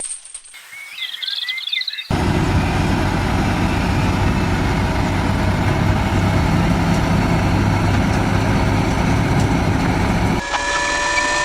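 A heavy diesel engine running steadily for most of the clip, cutting in abruptly about two seconds in and cutting out near the end. Before it come a few short chirps, and after it a different steady tone with one falling glide.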